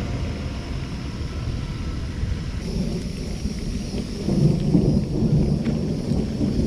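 Thunder rumbling, swelling louder about four seconds in.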